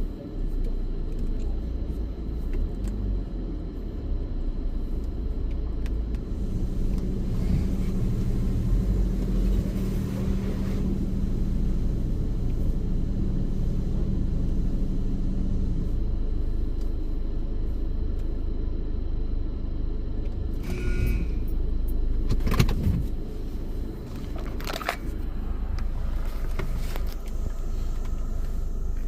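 A car's steady low engine and drivetrain rumble as it creeps into an automatic car wash bay, heard from inside the car, with a few sharp knocks about two-thirds of the way through.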